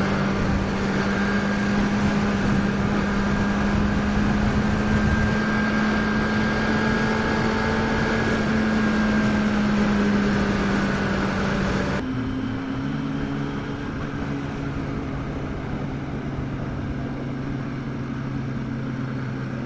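Sport-bike inline-four engine running at a steady cruising speed with heavy wind rush. About two-thirds of the way through, the engine note drops suddenly to a lower steady pitch and the wind rush falls away.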